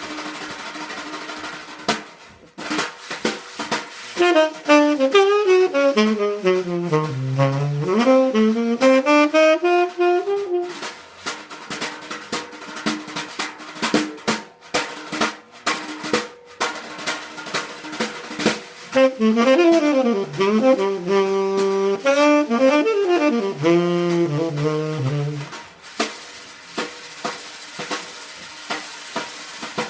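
Swing jazz instrumental break: a saxophone solo playing fast runs up and down in two long phrases over a drum kit.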